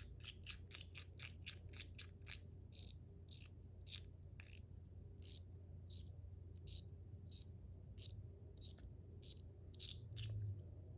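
Metal Toys DZ Top C fidget in Zircuti metal worked gently in the hand: faint, light ticks a few times a second, without the louder end clicks.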